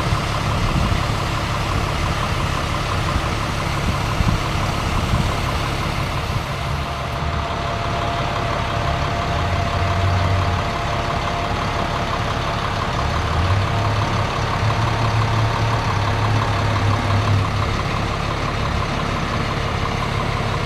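Bucket truck's engine running steadily, speeding up briefly about halfway through and again for several seconds after that, as the boom is worked.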